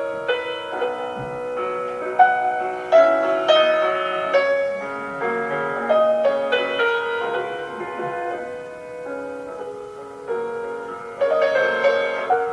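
Classical piano music: a melody of struck, ringing notes over a gentle accompaniment, softening in the middle and swelling again near the end.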